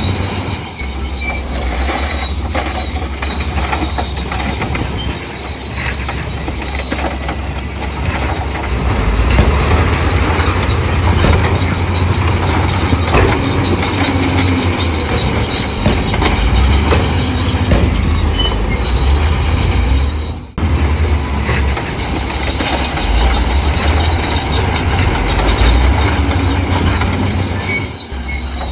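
Bulldozer working: heavy diesel engine running under load with steel crawler tracks clanking and squealing. The sound drops out briefly about 20 seconds in.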